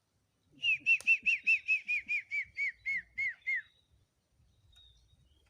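A rapid run of about fifteen clear whistled notes, each sliding down in pitch, at about five notes a second for some three seconds.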